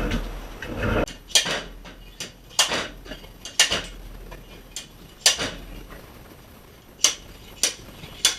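Metal tool clinks and sharp knocks from pocket (blind) bearing puller tooling being handled and worked on a crankcase bearing. There is a low rubbing thump at the start, then single sharp knocks at uneven intervals about a second apart.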